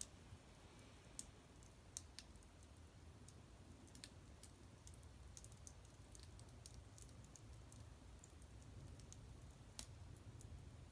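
Faint, irregular crackling of a small wood fire: scattered sharp snaps and ticks over a low steady hum.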